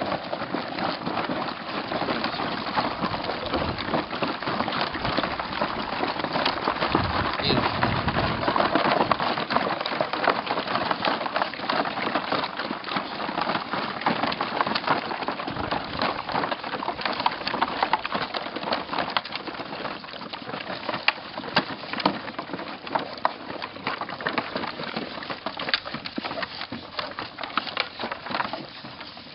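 A pack of kelpies eating at once after being released to their food: a dense, continuous crackle of many small crunches and clicks from jaws and food.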